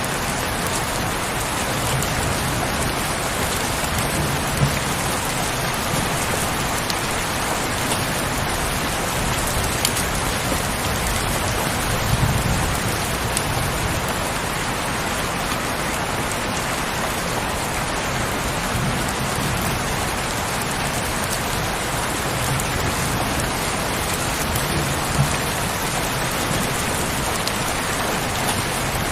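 Steady heavy rainfall with occasional louder individual drops, and a low rumble swelling now and then underneath.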